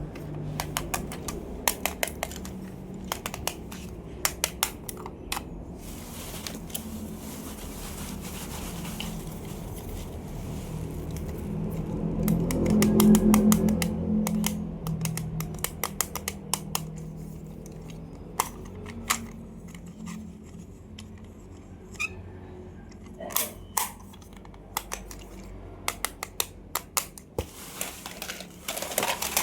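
Irregular sharp clicks and taps of plastic toy cars and their packaging being handled. A low rumble swells up around the middle and then fades.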